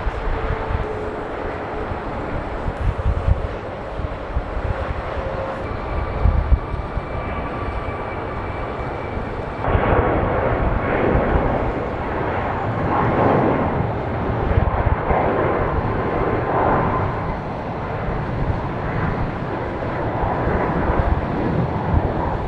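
Jet airliner engines at takeoff power, with a faint steady whine, growing louder about ten seconds in as the plane comes closer. Wind rumbles on the microphone throughout.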